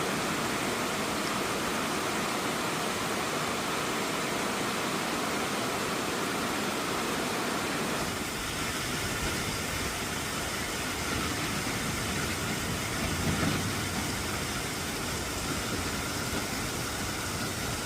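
Rain falling steadily, a continuous even hiss, with a brief low rumble about two-thirds of the way through.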